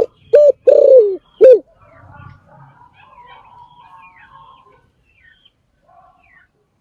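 Spotted dove cooing: one phrase of four coos in the first second and a half, the third long and falling in pitch, then faint chirps of other birds in the background.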